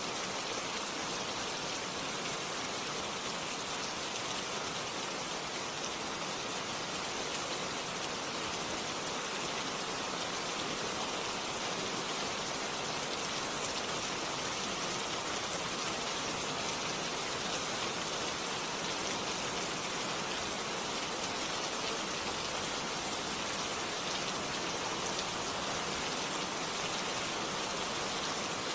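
Steady rain falling on surfaces, an even patter of raindrops with no thunder or breaks.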